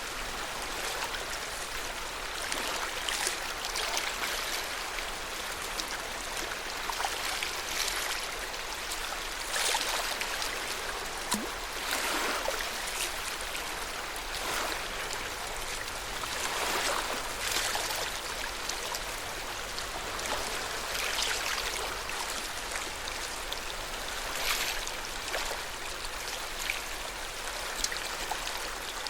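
Lake water lapping at the shore: a steady wash with soft surges every second or two as small waves come in.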